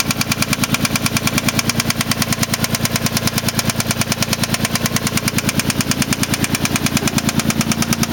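Mitsubishi 3000GT SL's 3.0-litre V6 running at a steady speed with a loud, even knock about ten times a second, which the owner takes for a possible spun rod bearing.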